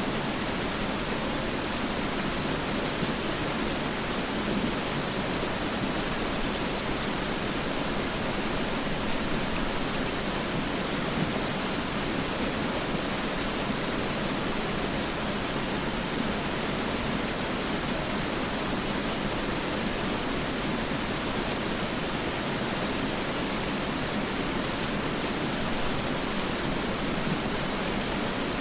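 Mountain river rushing steadily over rocks, a constant even roar of water.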